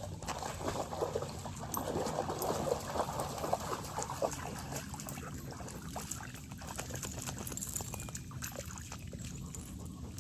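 Water splashing and trickling as a dog moves through shallow river water, with a busier run of small splashes in the first few seconds.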